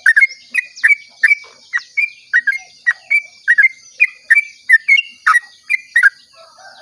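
Yellow-vented bulbul (trucukan) giving its rapid 'ropel' song: a fast run of short, loud, bubbly notes, about three a second, which stops shortly before the end. A steady high hiss runs underneath.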